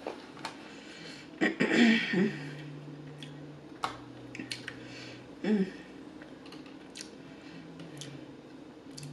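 Close-miked eating sounds: a person chewing and smacking their lips, with scattered wet clicks, and two short hummed vocal sounds, one about two seconds in and one a little past five seconds.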